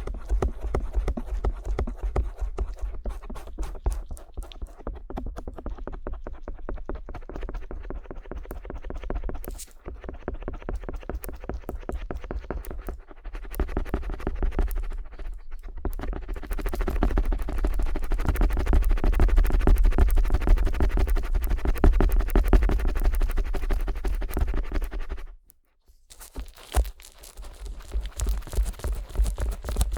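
Stainless steel ear pick scraping rapidly over the silicone ear of a 3Dio binaural microphone: a dense run of fast scratching strokes with heavy rumbling rubbing noise. The strokes pause briefly about ten and thirteen seconds in, and stop for a moment near the end.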